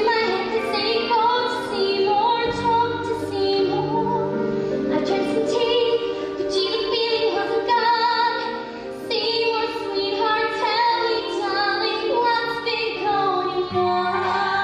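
A woman singing a show-tune solo over a musical accompaniment, holding long notes with vibrato.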